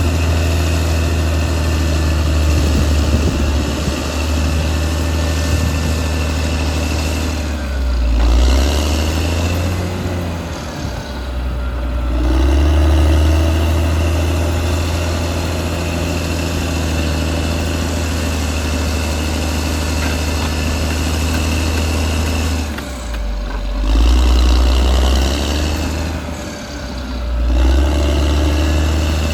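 Caterpillar D6R XL bulldozer's diesel engine running as the dozer works, its pitch and loudness rising and falling about four times as the load changes, with a high steady whine on top.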